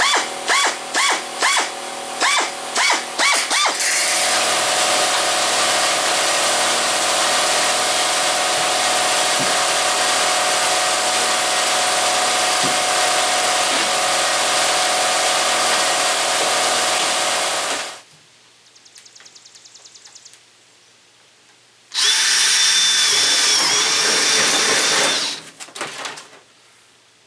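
Handheld electric power tool working sheet metal. It is blipped in about eight short bursts, each with a rising whine, then runs steadily for about fourteen seconds and stops sharply. After a pause it runs again for about three seconds with a higher-pitched whine.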